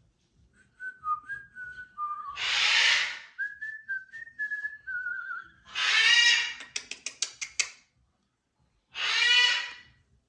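Macaws squawking, three loud, harsh screeches, between runs of clear, stepping whistled notes; a quick rattle of clicks follows the second squawk.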